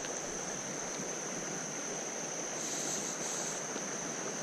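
Creek water running over rocks, a steady rushing hiss, with a steady high insect buzz over it that swells for about a second past the middle.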